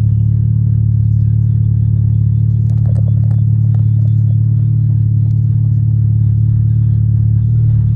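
Stage 3 tuned VW Golf R's turbocharged 2.0-litre four-cylinder running at a steady, unchanging engine speed, a loud low drone heard inside the moving car. A few faint clicks come about three seconds in.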